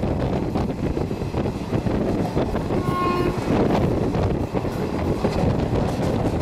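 Steady rumble of a moving train, with a brief train horn blast about three seconds in.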